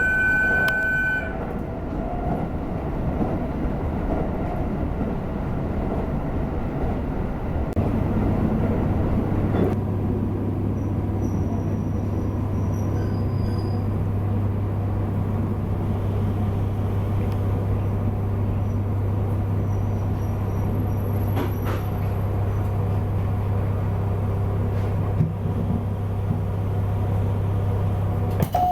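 JR Hokkaido local train running, heard from inside the carriage: a steady rumble. A high tone stops about a second in, and from about eight seconds a steady low hum joins the rumble.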